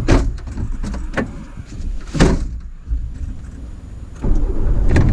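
A car running, with sharp knocks near the start and about two seconds in; the rumble grows louder near the end.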